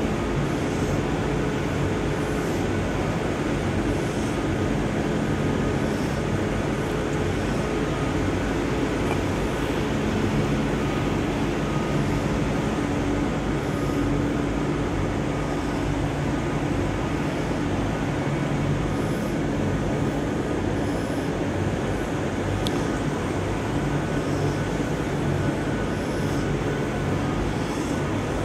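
Steady hum of an Avanti West Coast train standing at the platform, its onboard equipment running as a constant rumble with several low held tones.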